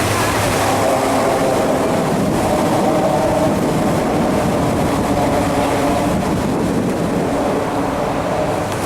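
A cruise boat under way: a steady, loud rumble of engine, rushing water and wind, with a faint steady hum.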